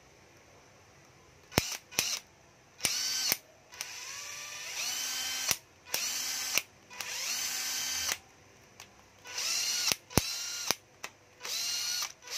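Panasonic cordless drill-driver motor triggered in a series of short runs, each whine rising as the motor spins up and then holding its pitch, some stepping up to a higher speed partway through, with a few sharp clicks between runs.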